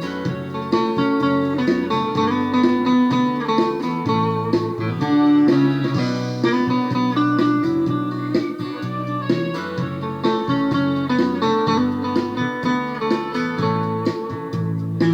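Instrumental break of a sertanejo song, led by plucked guitar over a steady band accompaniment, with no singing.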